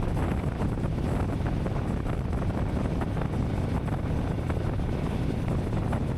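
Royal Enfield Meteor 350's single-cylinder engine running at a steady cruise, a low even rumble, with wind blowing across the camera microphone.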